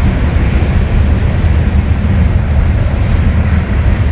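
A long train passing: a steady, loud rumble that stays even throughout.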